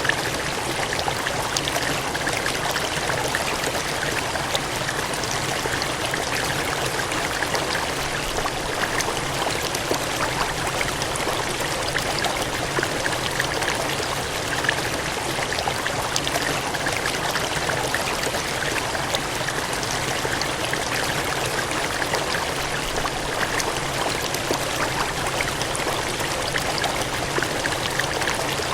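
Water gushing and cascading in a steady, unbroken rush, with fine splashing detail over it.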